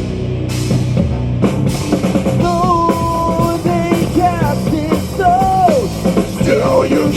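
Live metalcore band playing: pounding drum kit and heavy distorted guitars, with a melodic lead line of held and bending notes coming in about two and a half seconds in.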